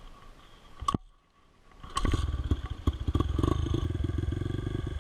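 Motorcycle engine running steadily, with rapid even firing pulses, starting about two seconds in after a short near-silent gap and a click.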